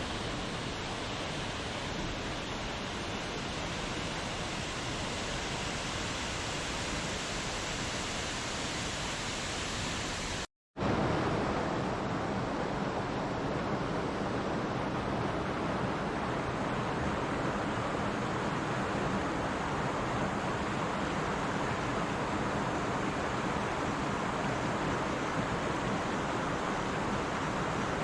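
Steady rushing noise with no tones or rhythm, broken by a moment of complete silence about ten and a half seconds in, and a little louder after it.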